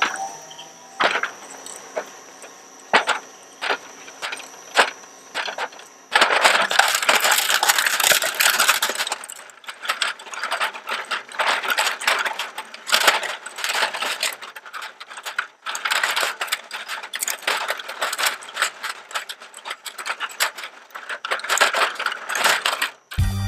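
A shredder's blades chewing up a hard plastic toy truck. For about six seconds there are separate sharp cracks over a high steady whine that then stops, followed by a dense run of crunching and cracking plastic.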